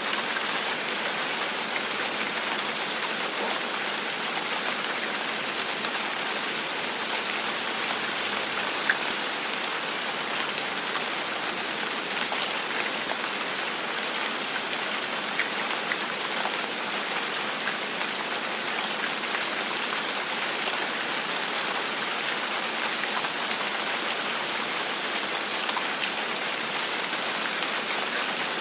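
Steady gentle rain falling on a surface, an even hiss with scattered individual drops ticking through it.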